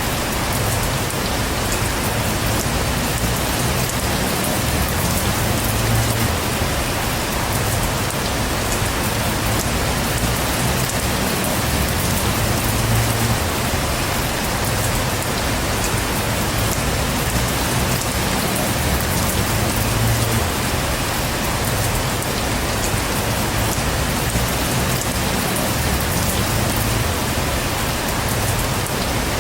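Steady heavy rainfall, an even wash of rain noise, with a low rumble that swells and fades every few seconds underneath.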